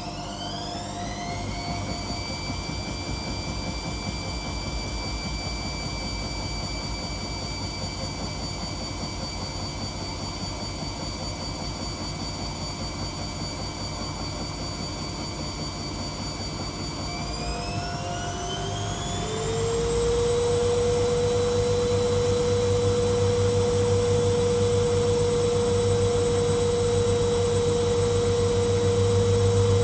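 Washing machine spinning up: the motor whine rises in pitch as the drum speeds up, holds steady, then rises again about two-thirds of the way through to a faster, louder spin with a low rumble beneath.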